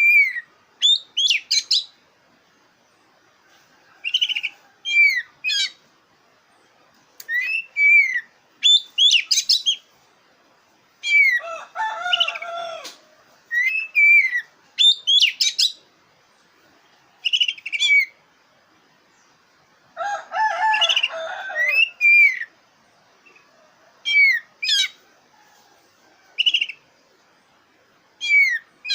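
Black-breasted form of the Oriental magpie-robin (kacer dada hitam) in full song: short, bright whistled phrases of quickly rising and falling notes, repeated every second or two. The phrases are broken twice by a longer, lower, harsher chattering call.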